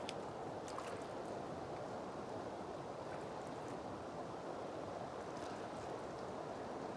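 Steady rush of flowing water, with a few faint light clicks in the first second or so.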